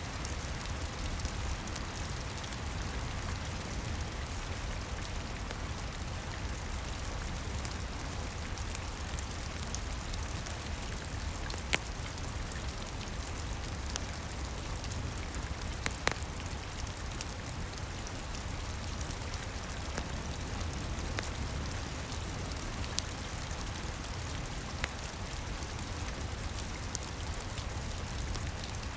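Steady rain falling, an even hiss with a low rumble beneath. A handful of sharp pops from a crackling wood fire stand out, the loudest about halfway through.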